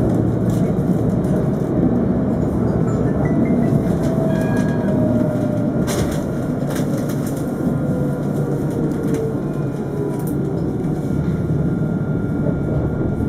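Alstom Citadis 402 tram running between stops, heard aboard: a steady rumble of wheels on rail with a faint electric-motor whine that slides down in pitch, and a few sharp clicks about six seconds in.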